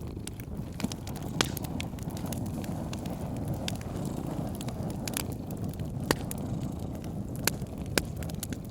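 Wood fire crackling with scattered sharp pops, over a cat's steady low purring.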